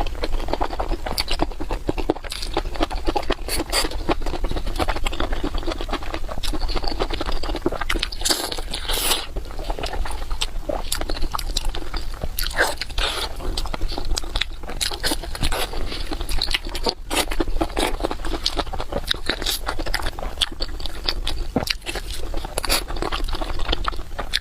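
A person chewing and biting food close to the microphone: a steady stream of wet mouth and bite sounds.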